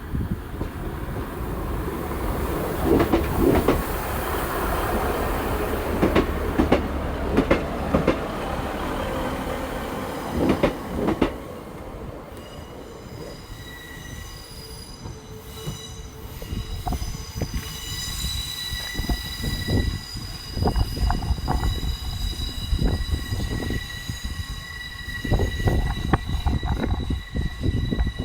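Train moving on the track, rumbling with repeated sharp wheel knocks over the rails. From about halfway a steady, high-pitched wheel squeal of several tones sets in and holds, with more wheel knocks near the end.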